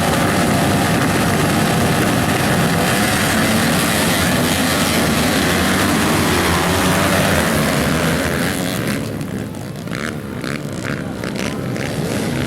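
Motocross dirt bikes racing, several engines running hard at high revs together. About eight seconds in the noise thins and drops, leaving a string of short rev bursts, then it swells again near the end.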